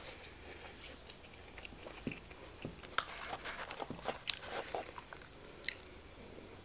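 Close-up eating sounds: chewing with scattered soft mouth clicks, handling of a cardboard burger box a few seconds in, and a bite into a burger near the end.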